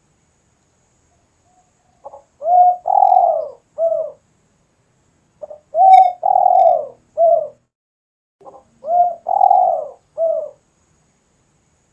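Spotted dove (tekukur) cooing in full song. It gives three phrases about three seconds apart, each a soft short note, a long coo and a shorter closing coo.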